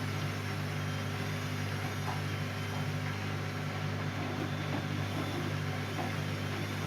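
Siemens Siwamat C10 washing machine running steadily mid-programme, a constant low hum with an even whir and a few faint ticks.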